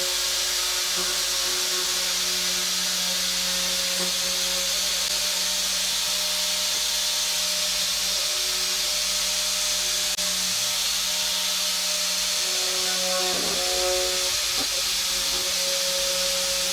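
Steady hiss under background music.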